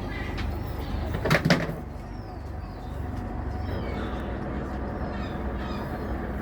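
Birds calling in short, repeated downward-sliding chirps over a steady low rumble, with a couple of loud knocks about a second and a half in.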